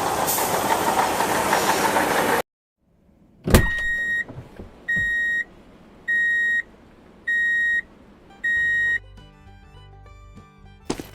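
A loud, even rushing noise that cuts off abruptly, then a click and five evenly spaced high electronic beeps, each about half a second long, followed by music.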